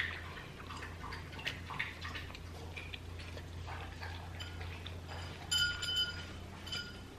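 Close-miked mouth sounds of chewing crispy fried chicken pakora: a run of soft clicks and crunches. About five and a half seconds in comes a brief high whining tone, twice in quick succession.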